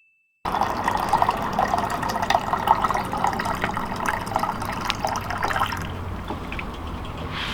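Water splashing in a busy patter of small drops and splashes that starts suddenly and eases to a quieter wash about six seconds in.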